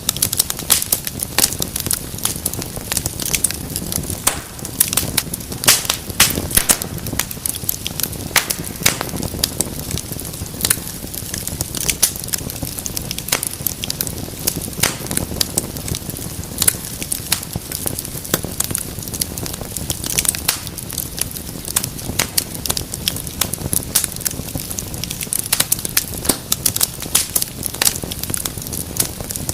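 Wood fire crackling steadily: many sharp, irregular pops and snaps over a low rumble of burning.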